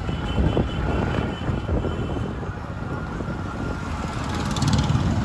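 Street traffic in a jam: vehicle engines running over a steady rumble, with a thin, steady, high horn- or siren-like tone in the first couple of seconds.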